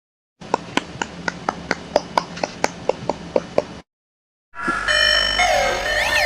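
A rapid series of sharp clicks, about five a second, over a faint steady hiss, lasting about three seconds and stopping abruptly. After a short silence, music with warbling, sliding tones starts near the end.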